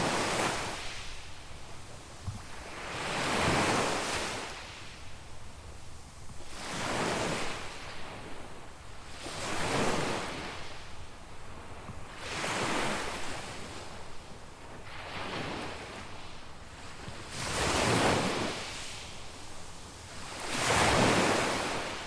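Small waves breaking and washing up a sandy beach, one after another about every three seconds, each surge rising and falling away.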